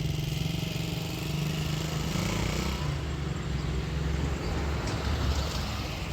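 A vehicle engine running steadily, its low hum dropping in pitch about three seconds in.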